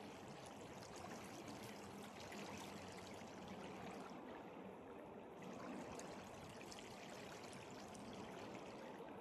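Faint, steady rush of flowing water, an even wash of sound without a break.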